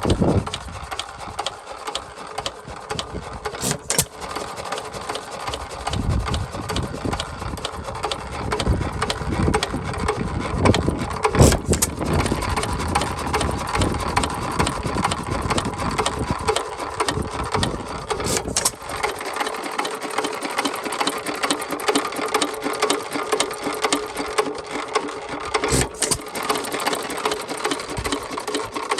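1 1/2 HP Worthington single-cylinder hit-and-miss engine running, a rapid steady mechanical clatter with a sharp crack about every seven seconds, four in all.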